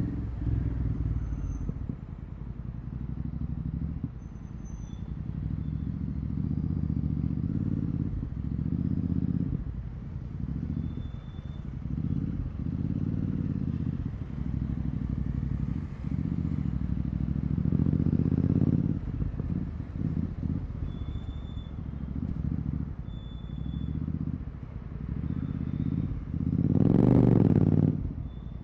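Royal Enfield Continental GT 650's parallel-twin engine through a Red Rooster exhaust with the dB killer removed, rising and falling with the throttle every few seconds. The loudest rev comes near the end.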